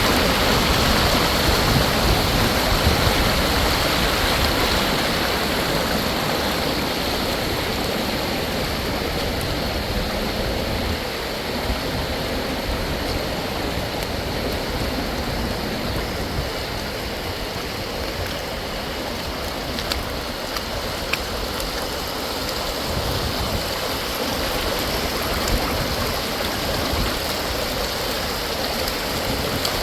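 Heavy storm rainwater rushing and pouring in a steady, continuous wash, slightly louder in the first few seconds.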